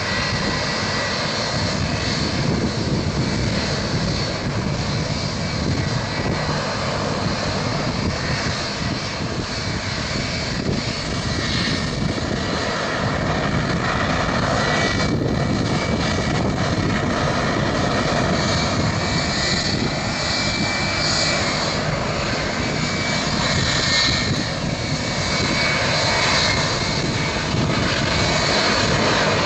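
Boeing 757-300 airliner's jet engines running steadily: a broad rush with a thin high whine over it, growing slightly louder in the second half.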